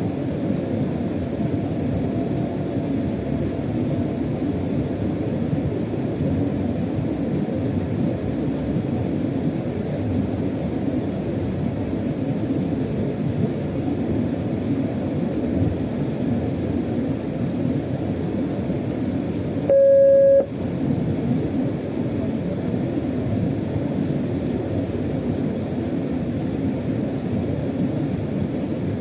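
Steady rumble of a German freight train heard from inside the locomotive cab while running. About twenty seconds in, a single short, loud, steady electronic beep from the cab sounds for under a second.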